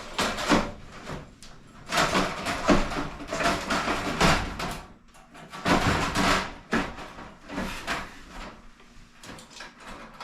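Metal casing of a portable diesel heater being slid and pressed back onto its body: scraping and rattling, then a few short clicks near the end.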